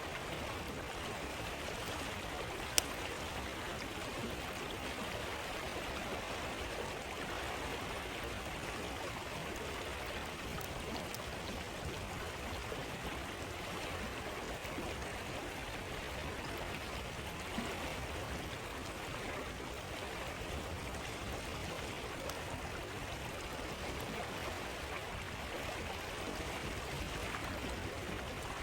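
Stream water flowing and babbling steadily. A single sharp pop about three seconds in and a fainter one midway are typical of a campfire crackling.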